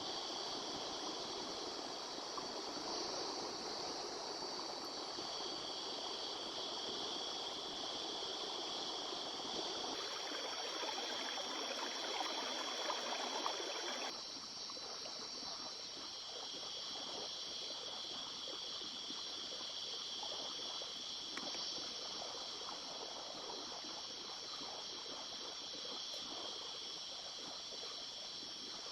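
A small river flowing with a steady rush of water. Steady high-pitched tones sit above it, and the sound shifts abruptly about ten and fourteen seconds in.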